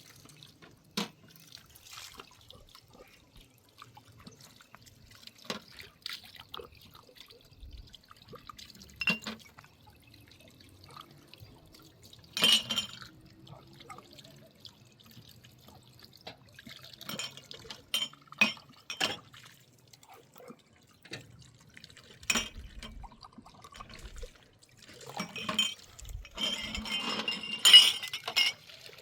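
Glassware and dishes clinking and knocking together amid splashing and dripping water, as in washing up at a sink. The clatter is busiest and loudest near the end.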